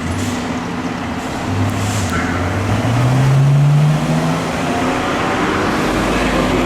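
A heavy vehicle's engine accelerating past, its pitch rising steadily for about three seconds before easing off. A siren begins to wail near the end.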